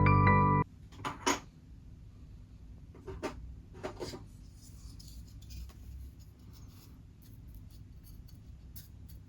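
Hobby workbench handling sounds from plastic model-kit work: sharp clicks and taps about a second in and again around three and four seconds in, then softer ticks and faint rubbing over a low room hum. Background music stops just after the start.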